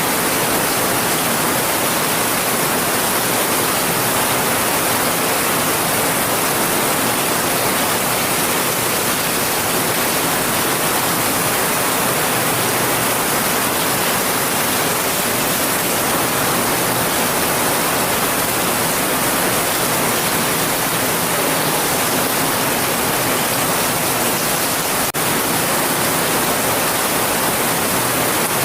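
Heavy rain falling steadily, an even, unbroken hiss with no thunder or drops standing out. A single faint click comes near the end.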